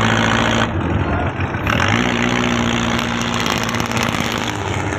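Purse-seine fishing boat's engine running steadily, with a rushing noise over it.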